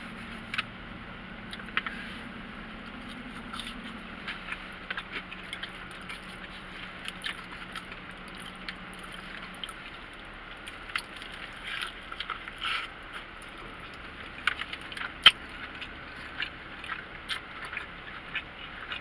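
Chewing and lip-smacking of people eating burgers and fries, with scattered short clicks and crinkles, over a low steady hum that stops about halfway through.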